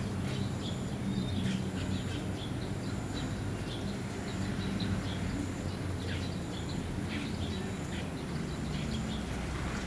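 Asian glossy starlings giving short, sharp chirping calls again and again over a steady low hum.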